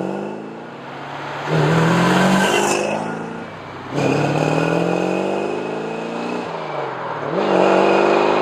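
Small-block V8 of a 1968–69 Chevrolet Corvette, breathing through a Flowmaster Force II dual exhaust with Delta Flow mufflers, blipped three times, its pitch falling back toward idle after each rev.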